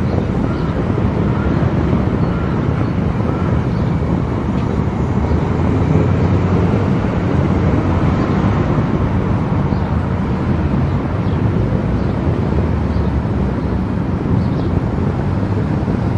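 Steady road noise of a car cruising on an expressway: tyre rumble and wind noise, heaviest in the low end and unchanging throughout.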